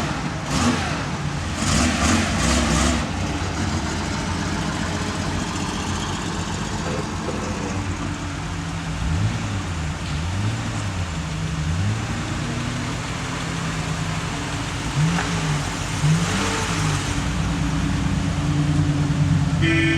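Car engine idling steadily, with quick throttle blips that rise and fall in pitch, several in a row around the middle and two more a few seconds later.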